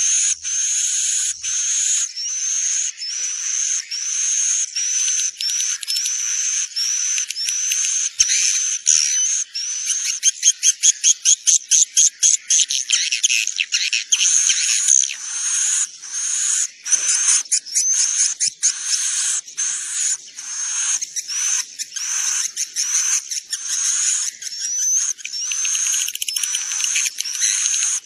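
Swiftlets calling: dense, high-pitched chirping twitters repeating less than a second apart, with a fast run of rattling clicks about ten seconds in. This is a swiftlet lure call of the kind played in nest houses to draw the birds in to roost.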